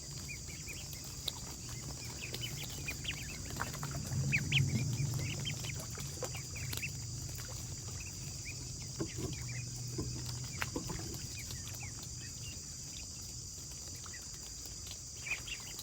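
Farmyard chickens and small birds giving short chirps and clucks over a steady low hum, which is loudest about four to five seconds in and fades out after about thirteen seconds.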